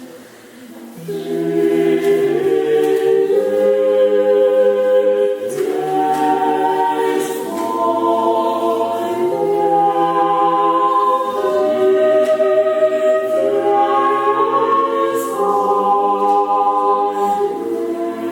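Orthodox church choir singing a cappella in several parts: long held chords that shift every second or two, after a brief pause for breath at the start.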